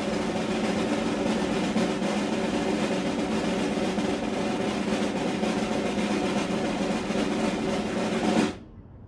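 A sustained snare drum roll at steady loudness that stops abruptly near the end.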